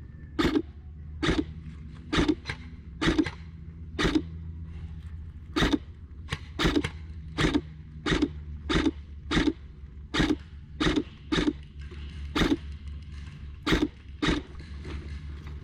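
Footsteps on a hard floor, an uneven series of sharp knocks about one every half second to second with a few short pauses. A steady low hum runs underneath.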